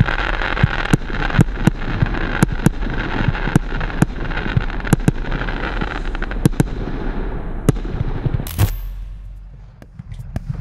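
Wolff 'Disorder' 72-shot, 25 mm firework battery firing: a rapid string of sharp launch pops a few tenths of a second apart over a steady crackling hiss from its strobe effects. After a loud bang about eight and a half seconds in, it dies away.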